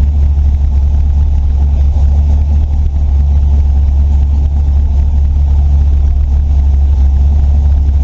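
LS-swapped V8 engine of an early-1950s Pontiac idling steadily and loudly.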